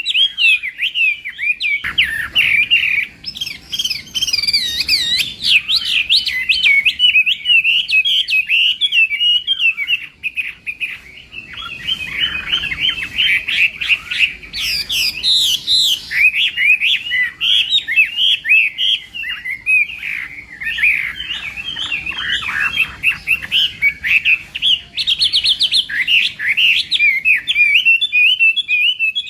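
Chinese hwamei singing a continuous stream of rapid, varied whistled phrases, with a brief lull about ten seconds in.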